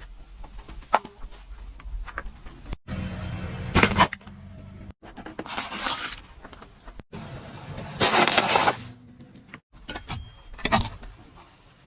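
Spliced clips of a car tyre rolling over and crushing objects: several sudden crunching, cracking bursts over a low rumble, broken by abrupt cuts. The loudest burst comes about eight seconds in.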